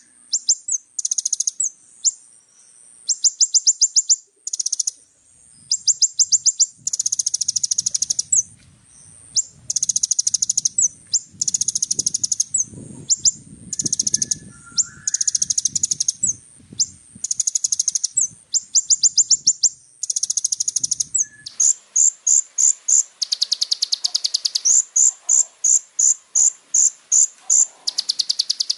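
Kolibri ninja sunbird singing full, busy song: bursts of rapid, very high-pitched trills and sharp chips with short pauses between them. From about two-thirds of the way in, a faster train of pulsed notes takes over.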